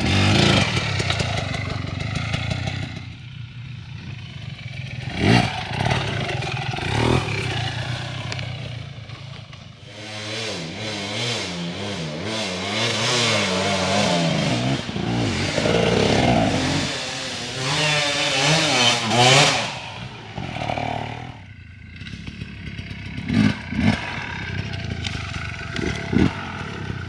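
Dirt bike engine revving up and down in quick swings as it is ridden over rough ground, with occasional sharp knocks and clatter.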